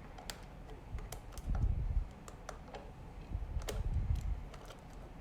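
Small irregular clicks and taps of a screwdriver working on the screws of a Chromebook's bottom panel, with two spells of low bumping from handling the laptop.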